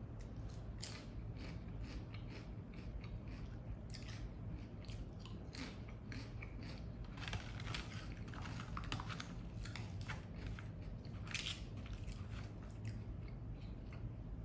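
A person chewing crunchy food, a salad topped with ruffled potato chips, giving many irregular crisp crunches.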